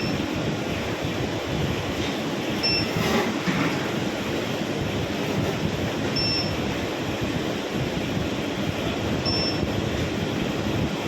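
Steady machine running noise, with a short high beep repeating about every three seconds.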